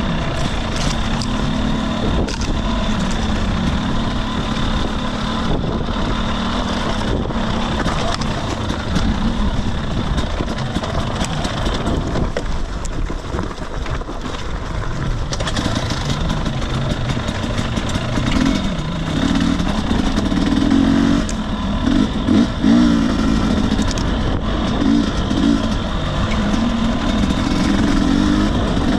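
2021 Husqvarna TE250i single-cylinder two-stroke dirt bike engine running under a rider on rough singletrack. The engine note rises and falls with the throttle, with louder bursts of revving past the middle and near the end, over a steady clatter of knocks.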